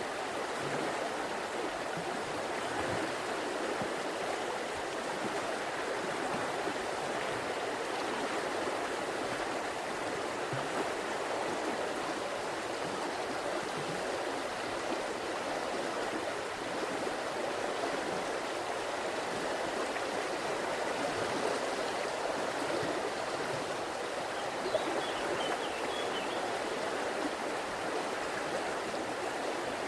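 River water flowing steadily, an even, continuous rushing of water.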